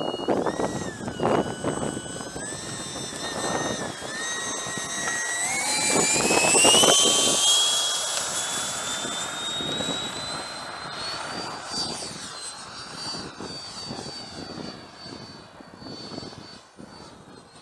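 Freewing F-22's 90 mm electric ducted fan whining, first rising and falling with short throttle changes, then spooling up to a steadily rising high whine as the jet is throttled up for takeoff. It is loudest about seven seconds in, then holds a high steady pitch and grows fainter as the jet moves away.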